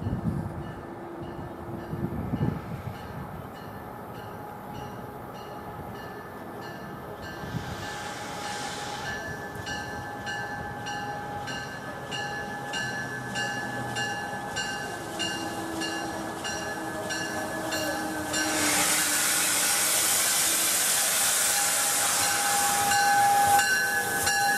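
MARC commuter train, led by its bilevel cab car, pulling into the station platform, with steady tones and a regular ticking about twice a second. About three-quarters of the way in, a loud hiss starts and holds for several seconds.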